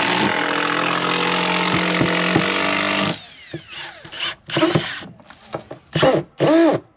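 Power drill driving screws into deck boards: one long steady run for about three seconds, then several short trigger pulses that spin up and wind down.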